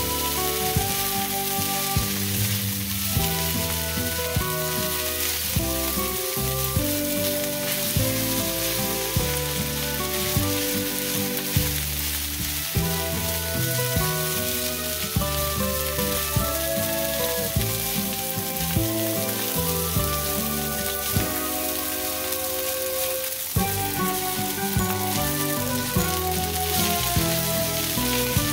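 Fried rice with egg sizzling in a hot honeycomb-textured stainless steel pan as it is stirred and tossed with silicone spatulas, over background music with a steady beat.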